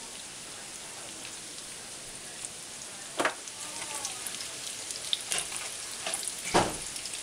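Breaded zucchini slices sizzling steadily in oil in a nonstick frying pan. From about three seconds in, a fork knocks and scrapes against the pan a few times as the slices are moved, the loudest knock near the end.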